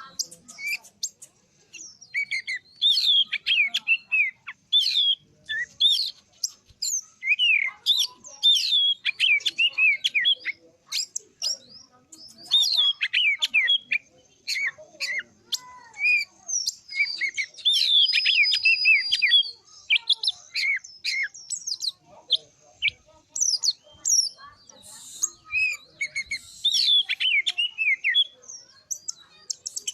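Oriental magpie-robin (kacer) singing a long, rapid song of varied whistles and sharp chattering notes, delivered in quick bursts with short pauses between them.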